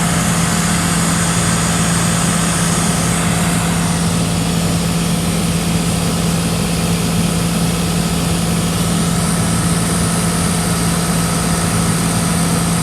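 Cessna 182's single piston engine and propeller droning steadily in flight, heard from inside the cabin, with a strong low hum over a wash of engine and airflow noise.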